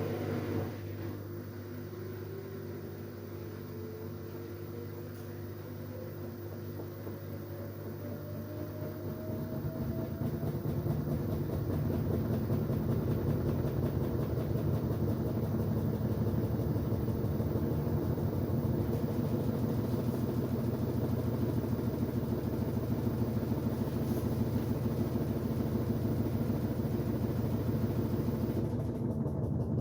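LG Direct Drive 8.5 kg washing machine's drum motor speeding up, its whine rising steadily in pitch over the first ten seconds. It then runs loud and steady, typical of the machine ramping up to spin speed.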